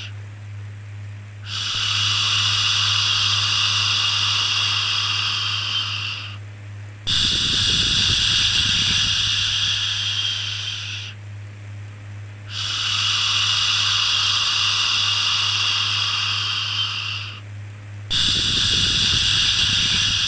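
Repeated shushing 'shhh' sounds, each a long hiss of about four to five seconds. They come in pairs separated by brief gaps, four in all, over a steady low hum.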